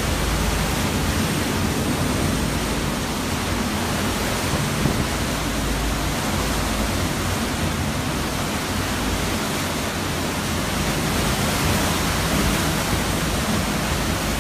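Hurricane-force wind blowing hard and steadily as a dense rushing noise, with gusts buffeting the microphone in the low end.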